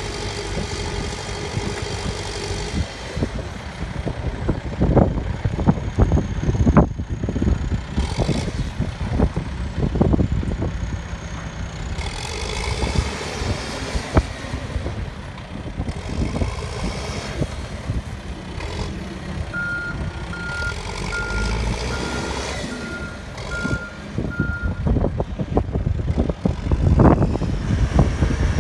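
Case 580 backhoe loader's diesel engine running under load, with several loud knocks and clanks. A reversing alarm beeps steadily for about five seconds about two-thirds of the way through.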